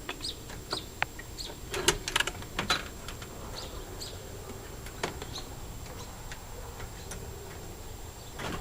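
A bird chirping in short, high notes repeated every second or so, with scattered sharp clicks and knocks, the loudest about two seconds in.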